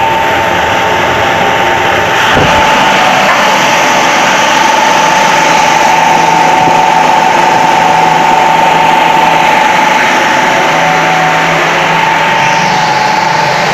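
VTs 14-46 No. 3.15 centrifugal (radial) fan, driven by a 1.5 kW 1450 rpm electric motor, running steadily at full speed: a loud even rush of air with a steady whine near 1 kHz. There is a brief low knock about two seconds in.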